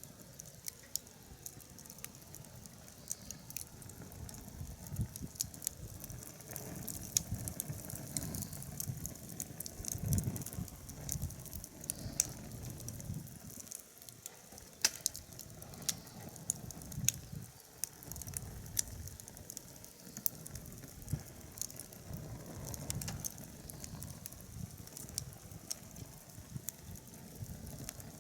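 Wood fire burning in a fire pit: irregular sharp crackles and pops over a low, wavering rumble of flame.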